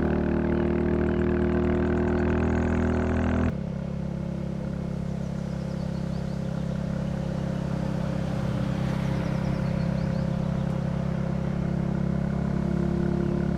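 Royal Enfield Classic 350's single-cylinder engine running steadily under way. Its note and loudness drop abruptly about three and a half seconds in, then it runs on evenly.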